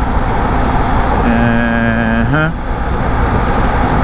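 Steady wind and road rumble from a BMW GS Adventure motorcycle riding at freeway speed, heard through a helmet-mounted camera, with a low engine drone underneath. A single held pitched tone sounds in the middle for about a second, rising as it ends.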